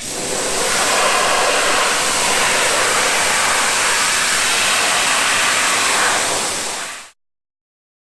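Pressure washer jet spraying water, a steady loud hiss that starts suddenly and fades out about seven seconds in.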